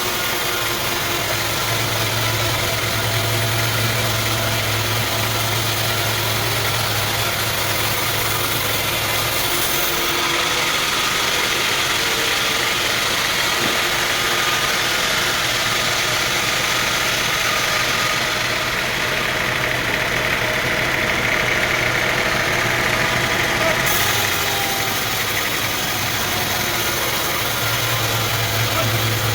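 Sawmill machinery running steadily with a constant engine-like drone. A low hum drops out and returns twice.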